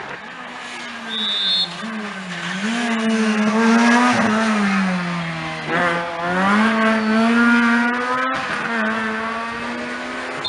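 Rally car engine under hard acceleration: the revs climb, drop back about six seconds in, then climb again and level off.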